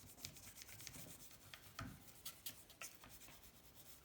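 Faint rubbing and scratching on the aluminium engine case being polished by hand, with scattered light clicks. No power tool is running.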